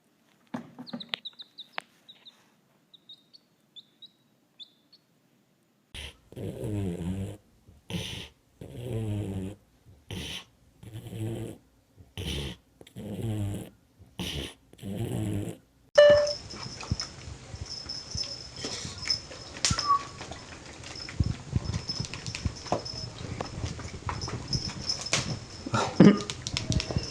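A dog vocalizing in a series of about nine drawn-out, wavering yelps or howls, each about a second long. Faint high chirps come before them, and a noisy stretch with a steady high whine and a few knocks follows.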